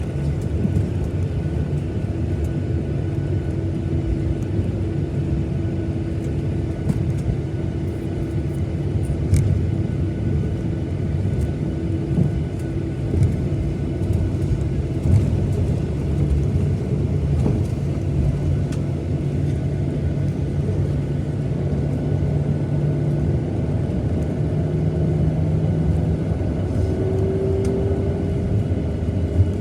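Boeing 737-900ER's CFM56-7B engines at idle, heard inside the cabin as a steady low rumble with a hum while the airliner taxis after landing; the hum rises slightly in pitch near the end.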